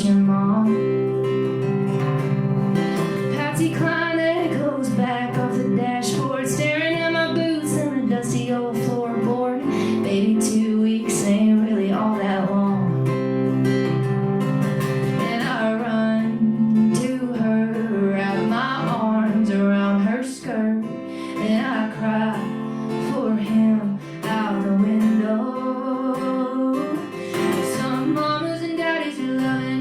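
A woman singing a song live to her own strummed acoustic guitar.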